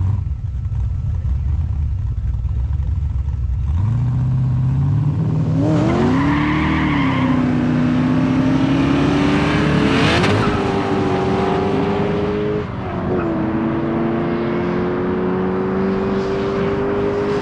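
Holden Commodore drag cars idling at the line, then launching about four seconds in and accelerating hard up through the gears. The engine pitch climbs and drops back several times at the gear changes as the car pulls away down the strip.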